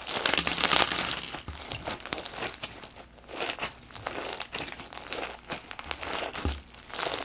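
Fishbowl crunch slime being squeezed and pressed by hand, its plastic fishbowl beads crackling and crunching in dense, irregular clusters.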